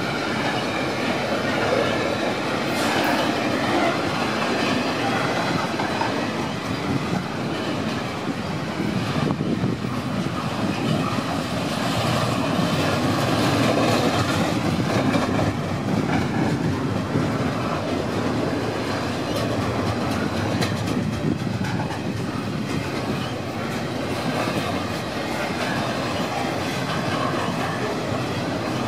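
Double-stack container well cars of a long freight train rolling past slowly, their steel wheels rumbling and clattering over the rails.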